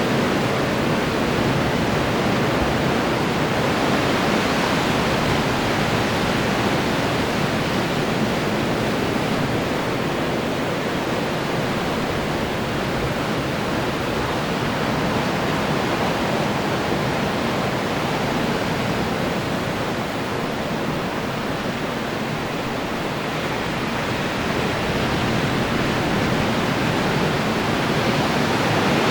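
Ocean surf breaking on the shore: a steady wash of noise that swells and eases slowly as waves come in.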